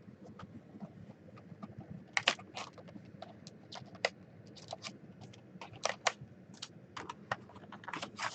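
Cardboard trading-card box being opened and handled, with the plastic wrap crinkling: irregular sharp clicks and crackles starting about two seconds in.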